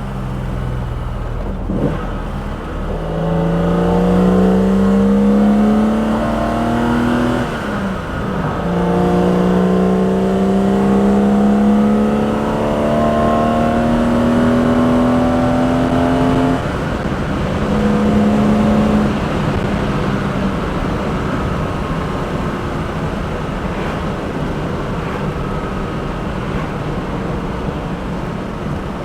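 BMW S38B36 3.6-litre straight-six with individual throttle bodies pulling hard through two gears: the engine note rises, drops at an upshift about 8 seconds in, and rises again. Around 16 seconds in the driver lifts off, the note holds briefly, and the car settles into steadier cruising engine and road noise.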